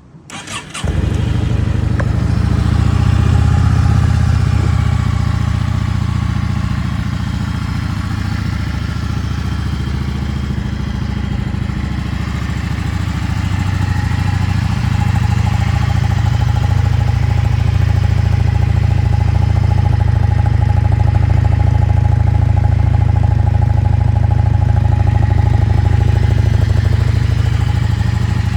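Stock-exhaust 2014 Yamaha V Star 650's air-cooled V-twin on a cold start: the starter cranks for about a second, the engine catches, and it then runs steadily.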